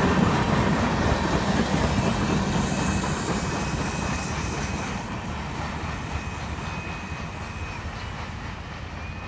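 Freight train of tank cars rolling past on the rails, its rumble fading steadily as the train moves away.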